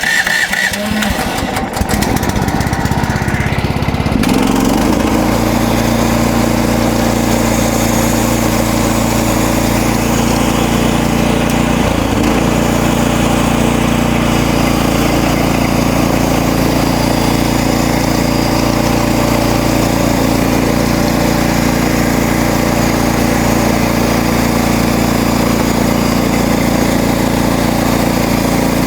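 MechMaxx band sawmill's gasoline engine picks up speed about four seconds in, then runs steadily at working speed as the band blade saws through a cedar log.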